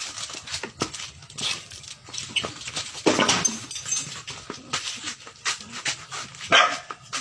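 A dog barking and whimpering while it fights a rat, among many short clicks and scrabbling noises. The loudest bursts come about three seconds in and again near the end.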